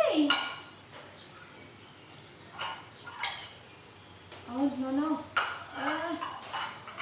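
Dishes and cutlery clinking, with a few sharp clicks, while short wavering voice sounds come and go.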